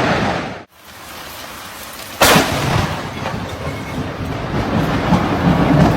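A thunderclap from a close lightning strike: a sudden sharp crack about two seconds in, followed by steady low rumbling. Under a second in, a different loud noisy sound cuts off abruptly just before it.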